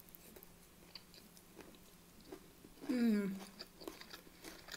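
Close-up chewing of a mouthful of rice and beef mince, with small wet mouth clicks. About three seconds in comes a short hummed 'mmm' that falls in pitch.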